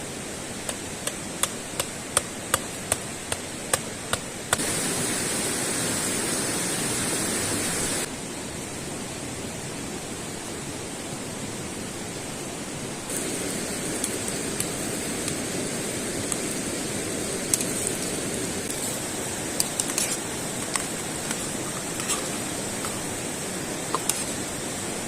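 Steady rushing noise that jumps up and down in level a few times. In the first few seconds a run of sharp clicks sounds about two or three times a second, with scattered clicks later.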